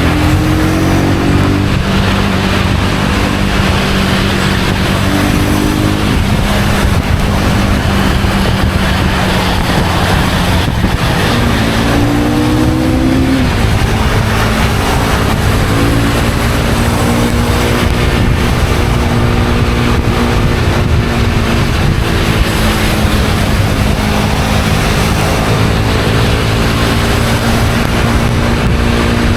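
Honda CB250R's single-cylinder four-stroke engine under way, the engine pitch rising and dropping back several times as the bike accelerates and shifts gear, over a steady rushing noise of the ride.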